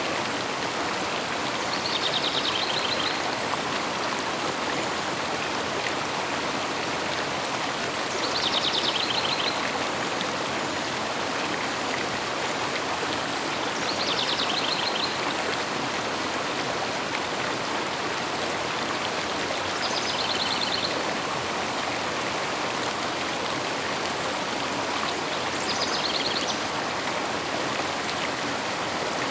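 River water flowing steadily, with a bird's short trilled song, about a second long, repeating about every six seconds.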